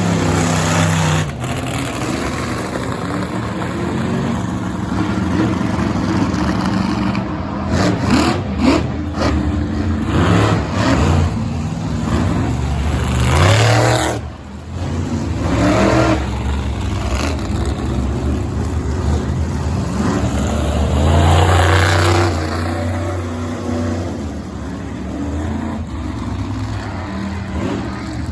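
Monster truck engine revving hard, its pitch rising and falling again and again as the throttle is worked, with a brief drop-off about fourteen seconds in.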